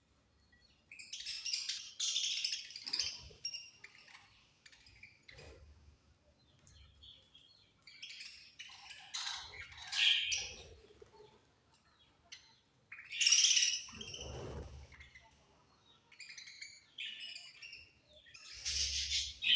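Budgies chirping in bouts of quick, high chirps, with short pauses between the bouts.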